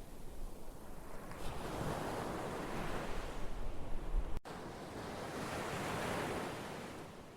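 Ocean surf: waves washing in and drawing back in slow swells of rushing noise. About four seconds in there is a momentary gap where the sound cuts out, and the wash fades near the end.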